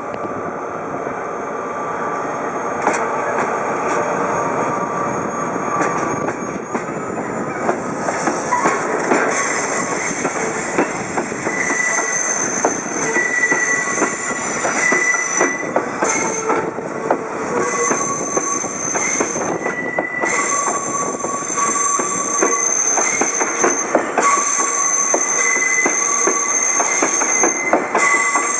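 Seibu 2000-series electric cars rolling past in tow, wheels clacking over rail joints and steel wheel flanges squealing in high, on-and-off tones that set in about twelve seconds in, the noise slowly growing louder.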